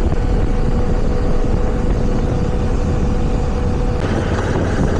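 Heavy motorcycle riding at road speed: engine running under heavy wind rush, with a steady whine that stops about four seconds in.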